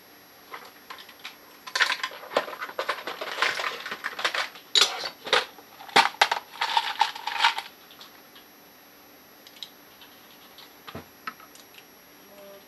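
Small metal parts and tools clinking, clicking and scraping during hand disassembly of a scuba regulator first stage. A dense run of clicks and scrapes lasts about six seconds, then a few scattered clicks follow.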